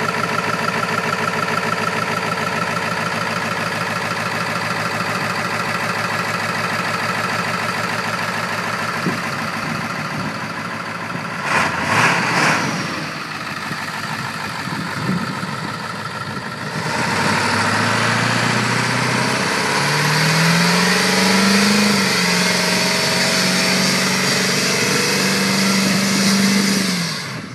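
Diesel truck engine running steadily, with a short rev about twelve seconds in. In the last ten seconds it revs up and holds high under a loud, even hiss of spinning tyres in a burnout.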